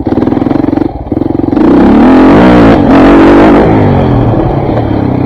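KTM 400 MXC's single-cylinder four-stroke dirt bike engine under throttle, with a hard burst of revs about one and a half seconds in that lasts about two seconds, the pitch rising and falling, before it settles back to a steadier run.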